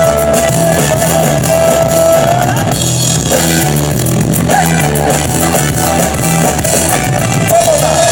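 A live pop band playing the instrumental introduction to a song, with a steady beat and bass under a held, sliding lead melody line.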